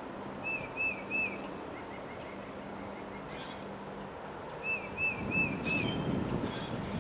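Steady wind noise that swells into a stronger gust in the last couple of seconds. Over it a songbird calls a quick run of clear rising-and-falling whistled notes, three near the start and four more about five seconds in.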